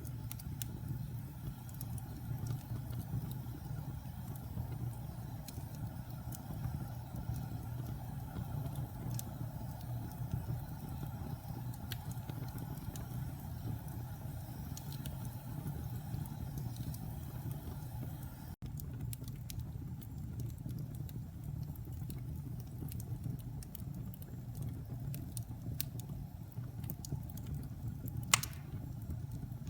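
Wood fire burning in a fireplace: a steady low rumble of flames with scattered small crackles, and one sharp pop near the end.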